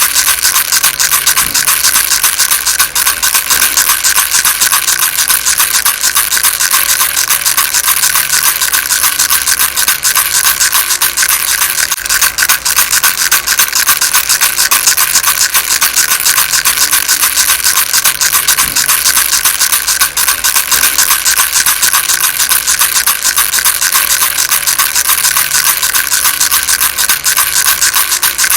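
Baby rattle shaken continuously, a dense, steady stream of fine rattling clicks with no pauses.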